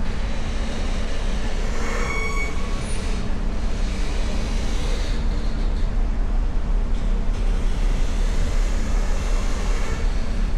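Steady low rumble of heavy vehicle engines at a ferry loading ramp, with a brief high squeal about two seconds in.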